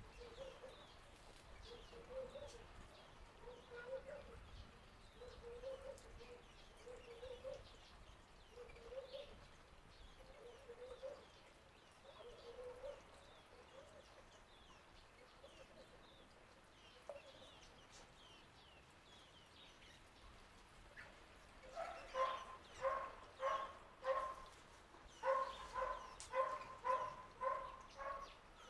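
Animal calls in a garden: faint high chirps throughout and a lower call repeating about every second and a half in the first half. Near the end come two runs of loud, evenly spaced calls, about two a second.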